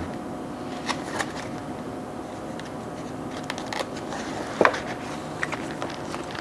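Scattered faint clicks and rustles of handling over a steady low room hum, with one slightly louder short tick about two-thirds of the way through.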